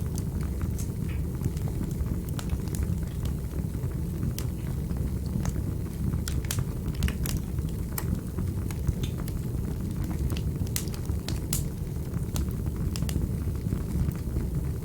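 Wood fire burning in a fireplace: a steady low rumble of the flames with frequent sharp, irregular pops and crackles.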